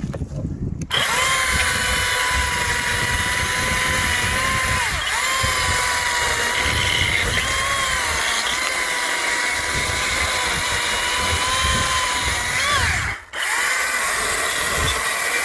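Echo DCS-2500T 56-volt battery chainsaw running at full speed with a steady high whine, cutting into wood, its pitch dipping briefly a few times as the chain takes load. It starts about a second in, stops for a moment near the end, and starts again.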